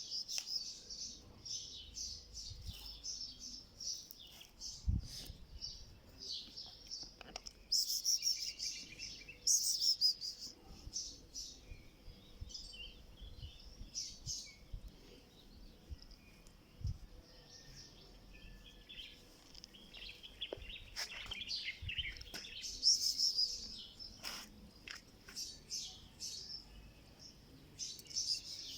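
Many small birds chirping and twittering without a break, with louder flurries of chirps about eight, ten and twenty-three seconds in.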